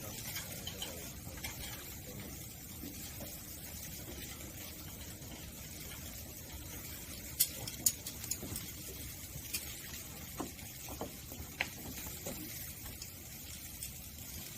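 Wood fire burning with a steady low hiss and scattered sharp crackles and pops from the burning firewood, most of them in the middle of the stretch.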